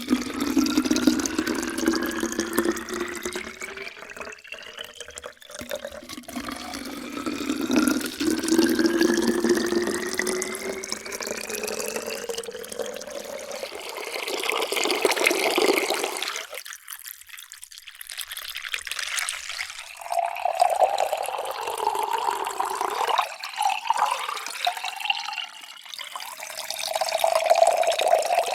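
Water pouring into containers one after another, each time with a tone that rises steadily in pitch as the vessel fills. There are two long rising fills in the first half, then more pours with brief pauses between them.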